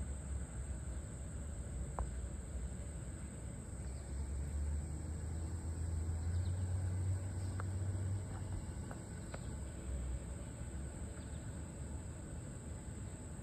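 A steady, high-pitched chorus of insects droning without a break. Under it is a low rumble that swells for a few seconds in the middle, with a few faint short chirps.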